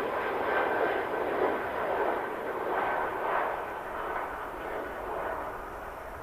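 Airliner engine noise: a rushing sound with a faint high steady whine, gradually fading away.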